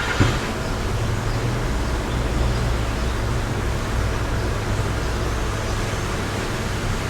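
Wind blowing steadily, with a low rumble of wind buffeting the microphone. A short knock comes just after the start.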